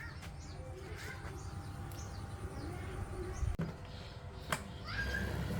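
Birds chirping over a low steady rumble, with a sharp knock about three and a half seconds in and another click a second later.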